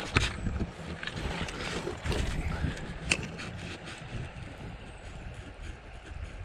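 Steady rush of river water with a gusting low rumble of wind on the microphone, and a couple of brief sharp clicks near the start and about three seconds in.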